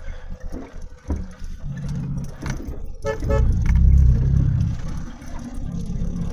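Vehicle engine running, growing louder in the middle as it pulls along, with a brief horn toot about three seconds in.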